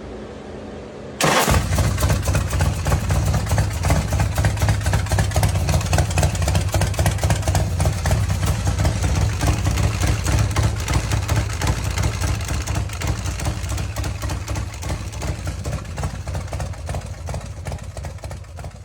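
A 2012 ASPT custom chopper's 125 cubic-inch V-twin engine comes in suddenly about a second in and runs steadily with a fast, deep, pulsing exhaust beat, easing off slightly near the end.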